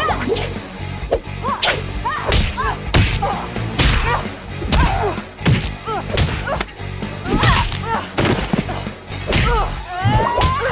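Cartoon fight sound effects: a rapid run of whooshes and sharp hits, mixed with short grunts and cries, one rising cry near the end.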